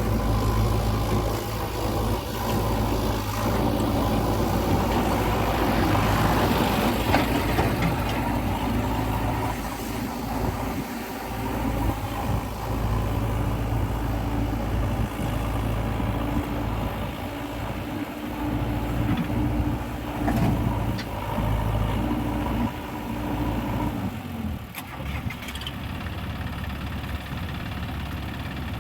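Diesel engine of a JCB 3DX backhoe loader running as it digs and loads mud, the engine note rising and easing with the work. Near the end the engine sound changes abruptly, with a few knocks.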